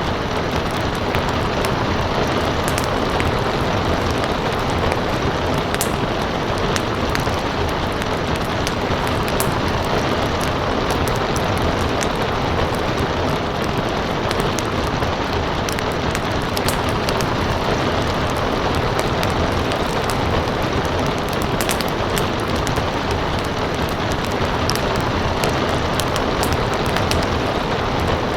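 Steady rain falling, an even hiss, mixed with the scattered sharp pops and crackles of a wood fire burning in a fireplace.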